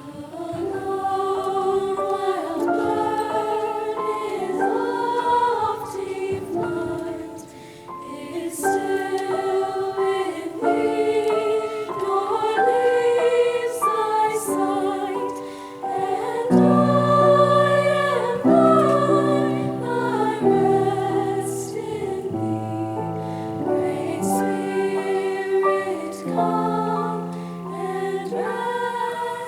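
High school madrigal choir singing a part-song. At first only the higher voices sing. Low voices join a little past halfway, and there are brief breaks between phrases.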